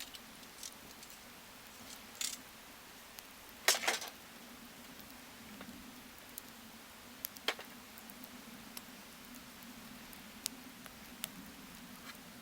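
Wood fire crackling in a fire stand: scattered sharp pops and snaps at irregular intervals, the loudest cluster about four seconds in.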